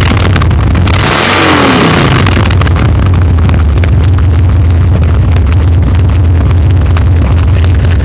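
124 cubic inch S&S V-twin engine of a Harley-Davidson Softail Springer running loudly, its revs rising and falling in the first two seconds, then running steadily and low.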